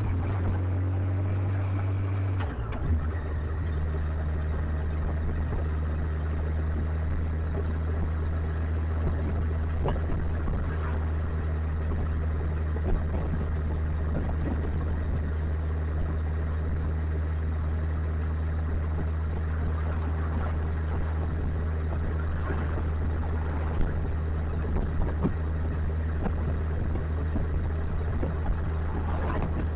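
Motorcycle engine running at a steady cruising pace. Its pitch drops a step about two and a half seconds in, then holds even.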